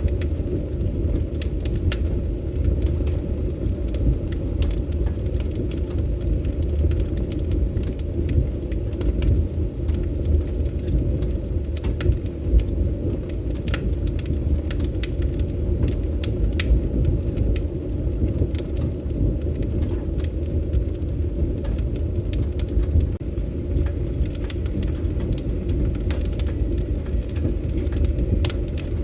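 Fire burning in a fireplace: a steady low rumble of flames with many small, sharp crackles and pops scattered through it.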